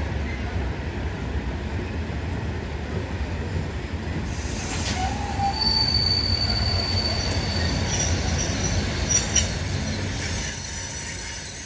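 Loaded coal wagons of a freight train rolling past with a steady rumble and a few sharp knocks. About halfway a thin, high wheel squeal sets in, and several higher squealing tones join it near the end.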